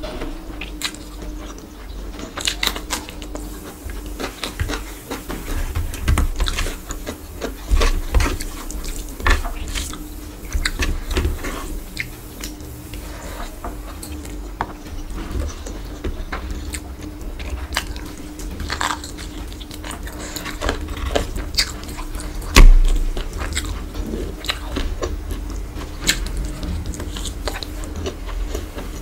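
Close-miked eating sounds: chewing and many small wet clicks as rice and mutton curry are mixed and eaten by hand, over a faint steady hum. A single loud low thump comes about three-quarters of the way through.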